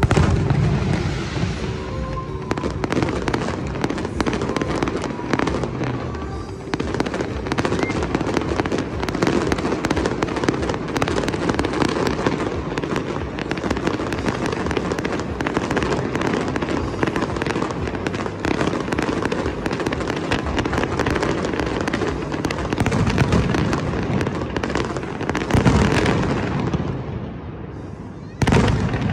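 Fireworks display: aerial shells bursting in a dense run of crackling and bangs, with heavier booms right at the start, twice in the second half and once more near the end. Music plays underneath.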